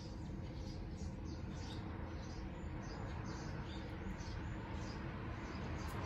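Small birds chirping in quick, short notes, over steady low background noise.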